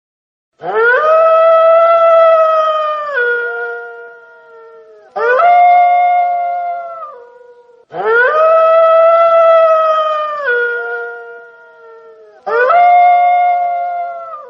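Wolf howling: four long howls in a row, each rising quickly at the start, held on one note, then dropping to a lower note as it fades.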